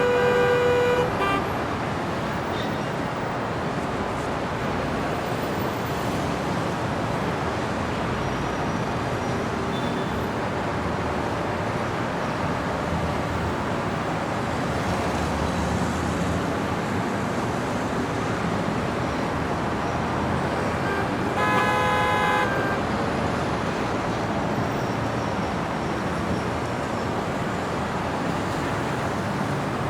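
City street traffic: a steady wash of passing cars and road noise. A vehicle horn honks for about a second at the start, and another horn sounds about two-thirds of the way through.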